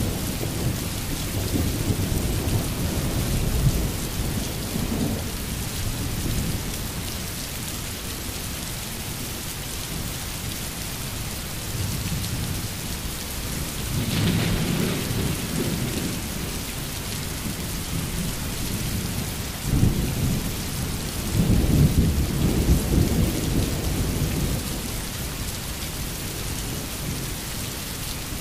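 Steady rain with rolling thunder. Low rumbles swell in the first few seconds and again about halfway, and a louder one starts suddenly about two-thirds of the way through.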